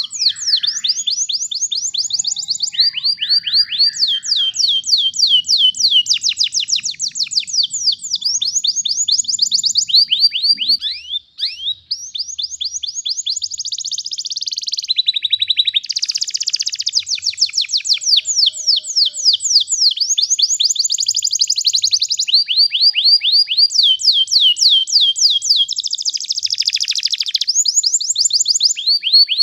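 Domestic canary singing a long, unbroken rolling song. It is made of rapid trills of quick descending whistled notes, each run held for a second or two before it jumps to a new pitch, with a short break a little before halfway.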